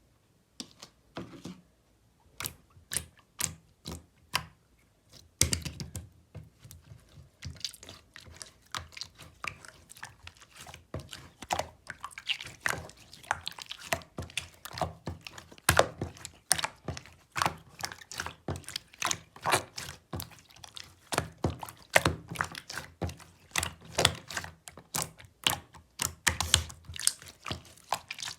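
Melted clear slime being squeezed and poked by hand, giving an irregular run of sticky clicks and pops. They are sparse for the first few seconds, then come thick and fast.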